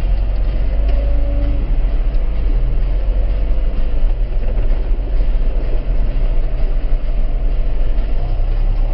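A heavy diesel engine running steadily under load.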